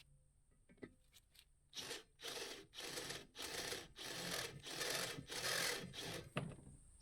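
Rasping, scraping strokes of a tool working metal, about eight strokes at roughly two a second, starting about two seconds in.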